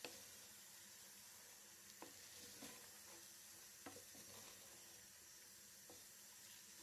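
Faint steady sizzling of food frying in a pan, with a few light knocks scattered through it.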